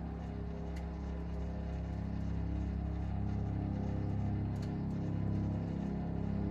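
Microwave oven running with a circuit board inside, its high-voltage transformer and magnetron giving a steady, slightly wavering hum, with a few faint ticks from the board.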